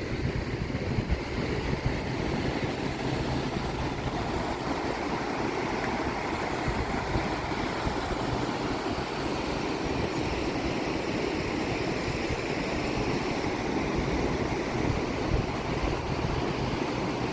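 Steady road and engine noise of a vehicle driving, a continuous low rumble with some wind noise.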